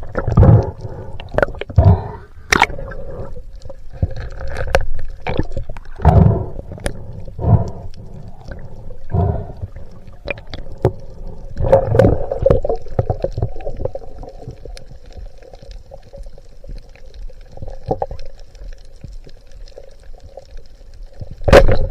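Water gurgling and sloshing against the camera in the sea, in irregular loud surges with scattered sharp clicks. A faint steady hum runs through the quieter stretch in the second half.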